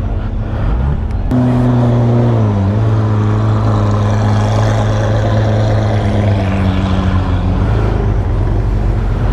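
A car engine running with a steady, loud, droning note that drops slightly in pitch about two and a half seconds in, then holds, over the noise of the meet.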